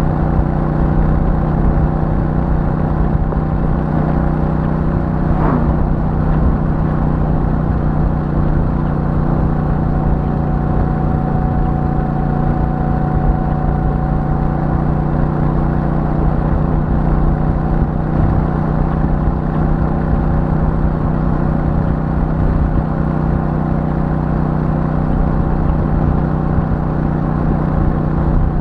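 Royal Enfield Super Meteor 650's parallel-twin engine and stock exhaust running steadily at cruising speed, with a low rumble under it. A brief rising-and-falling sound cuts through about five seconds in.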